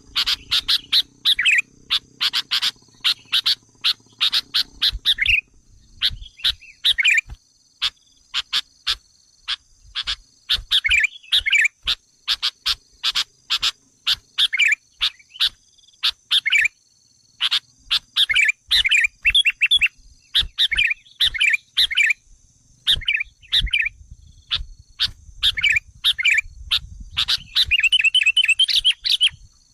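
Sooty-headed bulbuls calling in quick clusters of sharp chirps with short pauses between them. These are agitated calls of the kind played as a lure to provoke wild bulbuls. Near the end the notes run into a fast, even rattle, and a faint steady high tone sits underneath throughout.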